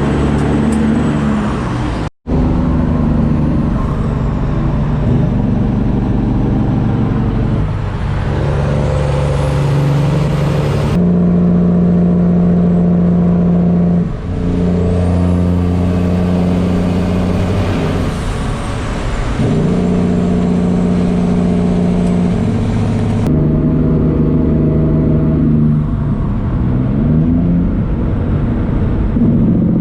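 Semi truck's diesel engine running under load, with a high turbo whistle rising and falling. The engine note changes abruptly several times where the footage is cut and climbs in pitch near the end.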